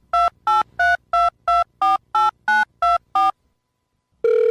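Touch-tone telephone keypad dialing ten digits: ten short beeps, about three a second, each a different two-note tone. Near the end a steady telephone line tone starts.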